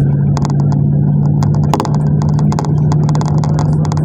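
Interior of a GAZelle route minibus on the move: a steady low engine drone with many short, irregular rattles and clicks from the cabin.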